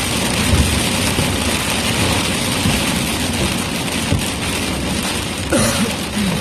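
Steady road and engine noise of a car driving, heard from inside the cabin, with a brief sliding tone near the end.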